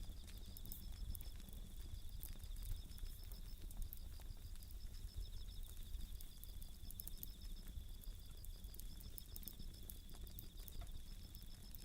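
Japanese bell crickets (suzumushi) singing in steady, rapidly pulsed high trills, over the soft crackle and snapping of a wood campfire.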